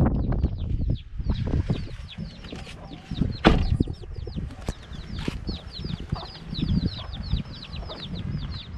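Chickens, with a rapid run of short, high, falling peeps, about five a second. Low rumbling and knocks lie underneath.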